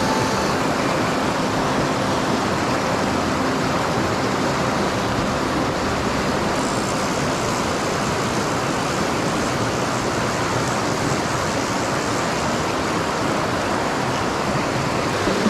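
Mountain stream rushing steadily as one even hiss of water, running high with rain and snowmelt.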